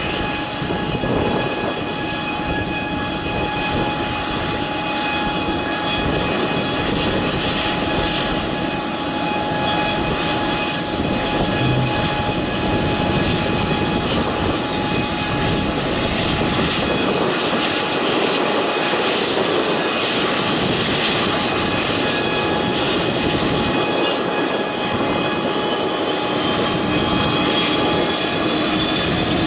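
Airbus A400M's Europrop TP400 turboprop engines running during engine start: a steady, loud rush with several steady whining tones. Near the end a tone rises as an engine spools up.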